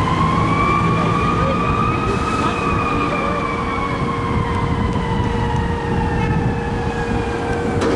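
Fire engine's wailing siren on an emergency response: its pitch rises for about two seconds, then falls slowly and drops away near the end, over the truck's rumble.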